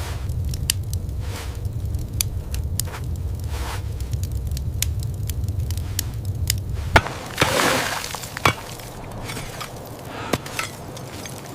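Ice being knocked and broken: many sharp knocks and cracks over a steady low rumble. The rumble cuts off about seven seconds in, and a few louder crunching scrapes follow.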